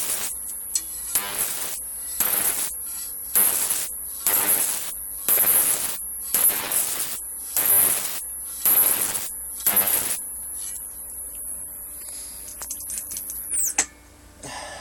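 High-voltage arcs from a large flyback transformer driven by a ZVS MOSFET driver, buzzing in about ten half-second bursts roughly a second apart. Under them runs a steady high-pitched whine from the driver and transformer, which falls away and stops near the end.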